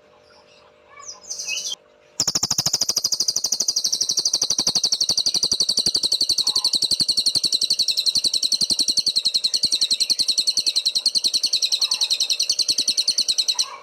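Cililin songbird singing. After a few faint chirps it breaks about two seconds in into one long, very fast, high-pitched trill of about ten notes a second, which runs on until near the end. This is the continuous rattling 'bren' song that kicau keepers prize.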